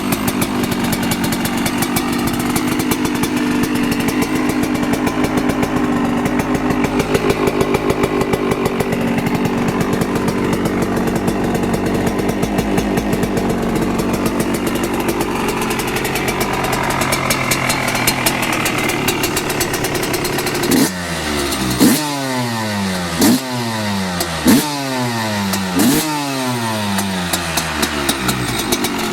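2005 Yamaha YZ125's single-cylinder two-stroke engine running steadily at idle, then blipped five times in quick succession near the end, the pitch jumping up and falling back each time.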